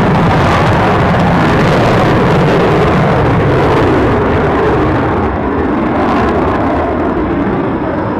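Loud, steady engine noise from an aircraft departing after takeoff clearance, easing off a little about five seconds in as it draws away.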